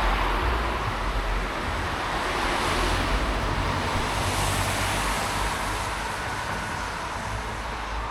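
Road traffic noise: a steady wash of passing cars over a low rumble, swelling again about four seconds in.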